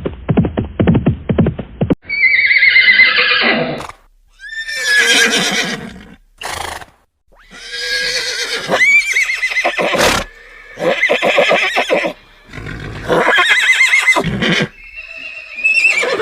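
Horse whinnying: about six separate high, quavering neighs with short gaps between them, after a quick run of knocking strokes in the first two seconds.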